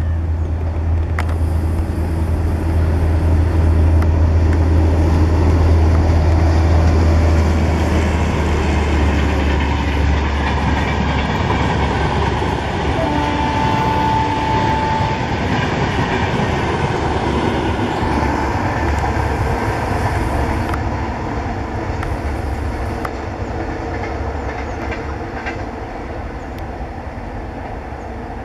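Double-decker express train hauled by a WAP-7 electric locomotive passing at speed: a dense rolling rumble of the coaches over the track, with a low drone through the first ten seconds or so and a brief horn note about halfway through. The sound then fades gradually as the train draws away.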